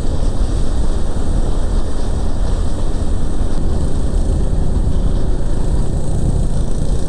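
Steady, loud wind rush and road noise from riding a motorcycle at speed.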